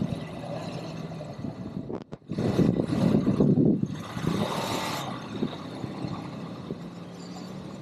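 ATV (quad bike) engine running during an off-road ride. It dips almost to nothing about two seconds in, then surges loudly for about a second and a half, followed by a short burst of hiss.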